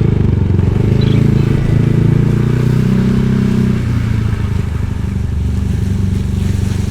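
Motorcycle engine running steadily while riding, with a low, pulsing note. The note eases off and drops a little about four seconds in.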